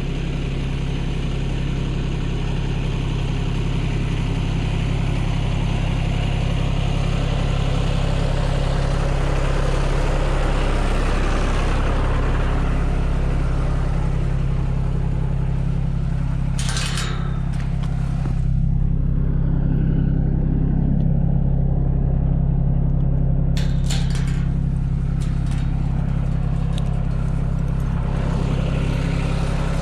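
Tractor engine running steadily, with a couple of brief rattles over it partway through.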